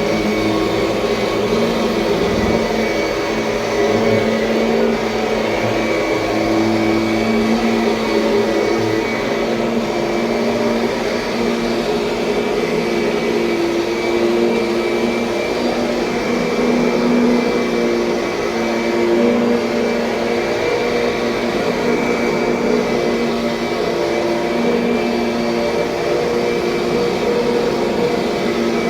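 Kirby Sentria upright vacuum cleaner running steadily, its motor hum wavering slightly in pitch.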